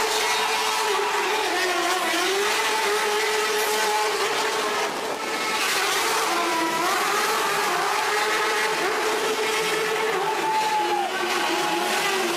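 Stunt cars and a motorcycle revving hard as they spin and drift, their engine pitch rising and falling over and over, with tyre noise from the burnouts.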